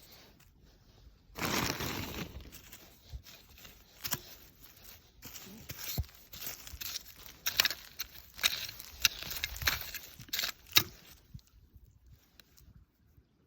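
Rustling, tearing and scraping as wild chives (dallae) are handled, with many sharp clicks and snaps; a loud burst of rustling about a second and a half in, busy handling noises through the middle, then quieter near the end.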